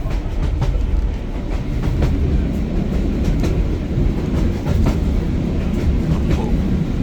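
Heritage train hauled by a diesel locomotive, heard from on board while moving: a steady low rumble of the running gear with scattered clicks from the wheels passing over rail joints.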